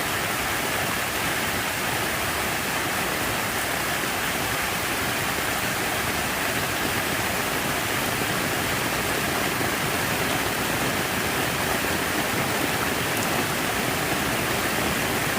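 Running water rushing steadily: an even, unbroken hiss with no changes.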